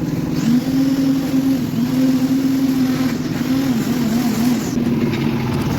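Engine of a concrete mixer machine running steadily, its pitch wavering up and down slightly.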